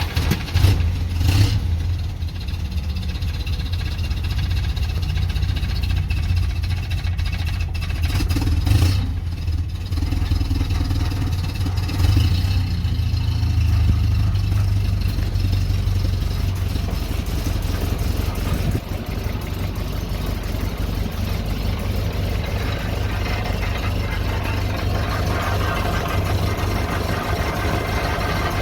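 Willys Jeep's JH4 four-cylinder petrol engine catching at the start and running, with a few sharp throttle blips in the first dozen seconds, then idling steadily. It is a cold start without choke on a newly fitted semi-transistor ignition, and the engine revs up cleanly.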